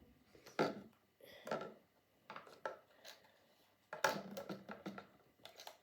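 Empty plastic water bottle and string being handled: irregular clicks, crinkles and light knocks, with a denser cluster about four seconds in.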